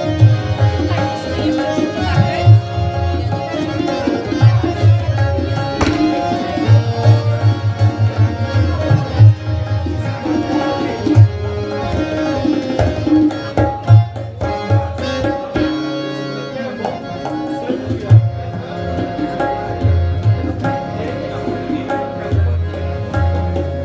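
Instrumental break of an Afghan pop song: tabla playing a busy rhythm with deep bass strokes under a sustained melodic instrument line. The low drum strokes drop out briefly about two-thirds of the way through, then return.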